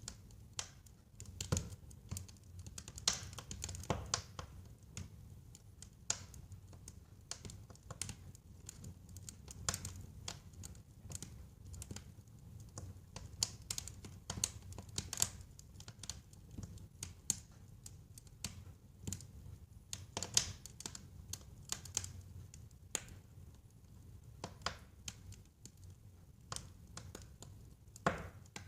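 Wood fire burning in a fireplace, crackling and popping irregularly, many small snaps a second, with a few louder pops, over a low rumble of flames.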